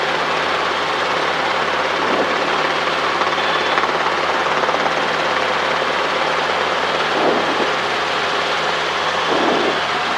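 Robinson R22 helicopter in flight, heard from inside the cabin: a steady, unbroken drone of engine and rotor noise.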